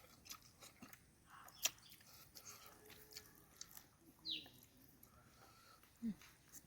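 Faint eating sounds: a few scattered mouth clicks and soft chewing, with a short falling squeak about four seconds in.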